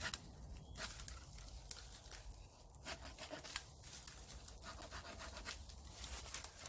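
Faint, irregular scratchy rustling with many scattered sharp crackles, like footsteps through dry leaf litter and twigs on a woodland floor.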